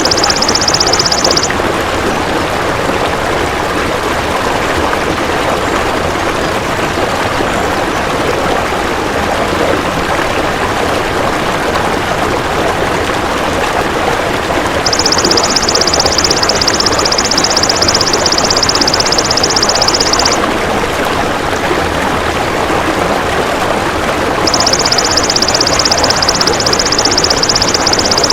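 Belalang emas (golden grasshopper) trilling in bouts of several seconds: a fast, high, finely pulsed buzz that starts and stops abruptly three times. Under it runs a steady rushing noise like running water.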